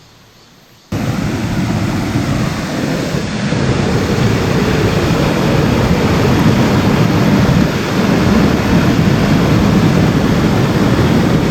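Loud, steady rush of a mountain stream's flowing water, cutting in suddenly about a second in.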